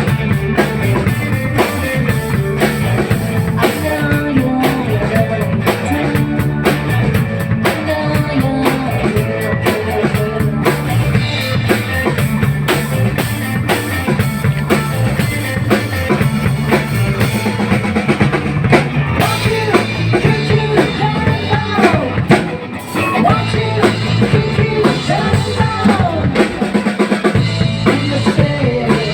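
Rock band playing, with the drum kit to the fore: bass drum and rim shots over a moving bass line. There is a brief drop in the music about two-thirds of the way through.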